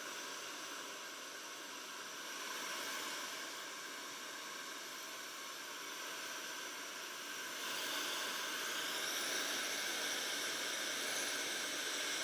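HSI Professional Dryonizer 2200 ceramic hair dryer running with a steady rush of blowing air. About eight seconds in it gets louder and brighter.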